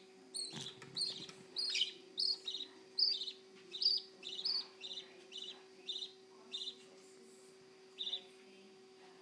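Baby budgerigar chirping in the nest box: a run of short, high, repeated chirps about two a second that tails off, with one last chirp near the end, over a faint steady hum.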